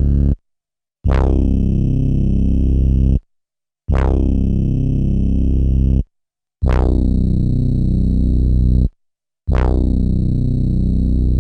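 12-bit SP-1200 sampler playing back a sampled deep synth bass note four times. Each note lasts about two seconds, with a bright attack that dulls quickly, and is cut off cleanly into dead silence before the next.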